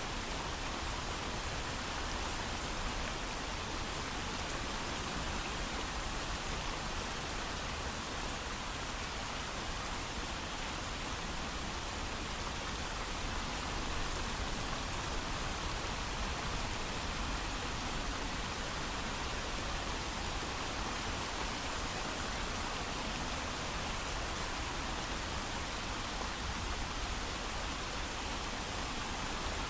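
Steady heavy rain falling, an even hiss of drops with no thunder.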